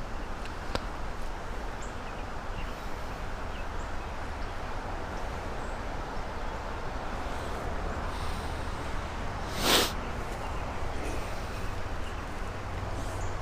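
Steady rushing of a fast-running creek, with one short, loud burst of noise about ten seconds in.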